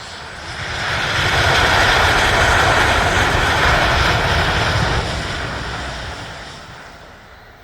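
An aircraft flying past: its engine noise swells in over about a second, stays loud for a few seconds, then fades away near the end.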